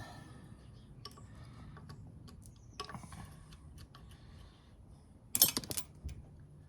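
Metal hand tools clicking and knocking on engine parts as a fitting is worked loose, with a short, loud rattle of clicks about five and a half seconds in.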